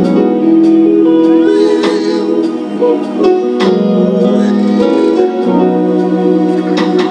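Live gospel band music without words: sustained keyboard chords and guitar, with sharp percussive hits about every half second.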